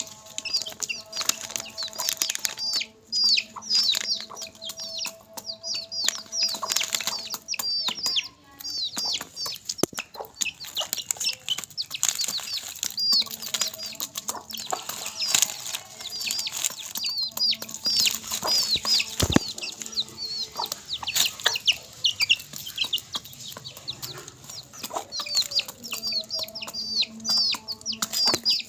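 Chickens feeding: chicks peeping high and fast without pause, mixed with clucking and many sharp clicks of beaks pecking at crisp papad.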